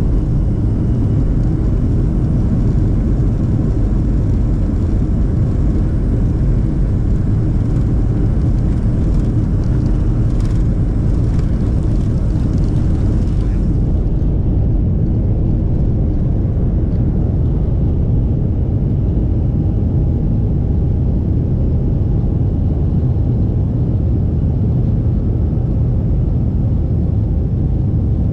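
Steady deep rumble of a Boeing 737-500's CFM56 jet engines and airflow, heard from inside the passenger cabin. The higher hiss drops away about halfway through, leaving the low rumble.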